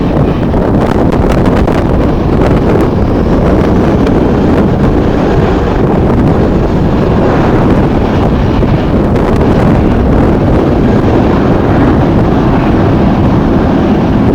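Strong gusting wind buffeting the camera microphone: a loud, steady rumble with no breaks.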